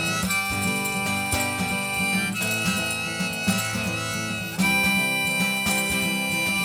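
Instrumental break of a live country-blues band: a harmonica plays long held notes, changing about every two seconds, over strummed acoustic guitar.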